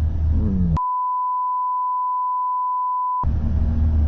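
Censor bleep: one steady high beep, about two and a half seconds long, that replaces all other sound, with motorcycle road and engine noise before and after it.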